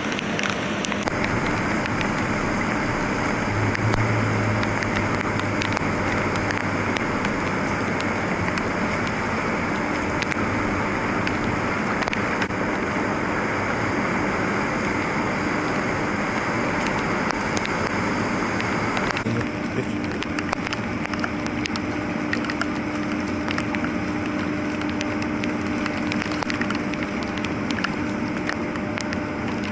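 Steady rain and water noise on a flooded street, with cars driving through the deep standing water and throwing up spray.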